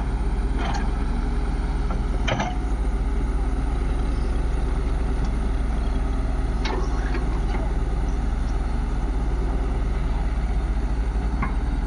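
Heavy diesel machinery engine running steadily at a low, even speed, with a few brief sharper sounds cutting through now and then.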